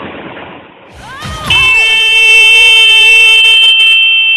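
Cessna stall warning horn sounding. After a second of steady cabin noise, a tone slides up in pitch and then holds as a loud, steady wail: the wing is at or near the stall.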